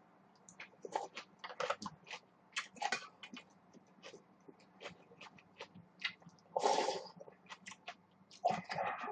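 Close-miked eating sounds of a person eating spicy instant ramen: irregular wet chewing and mouth smacks, with a longer noisy burst about two-thirds of the way through and another cluster near the end.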